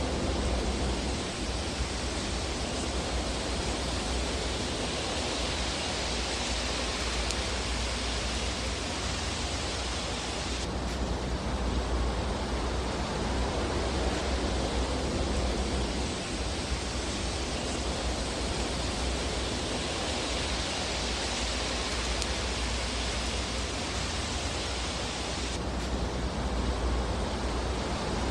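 Fire burning in a fireplace: a steady, even rushing hiss over a low rumble, with no sharp crackles standing out. The hiss shifts in tone about eleven seconds in and again near the end.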